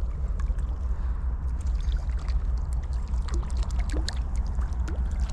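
Steady rush of river water, with scattered light ticks and small splashes over it.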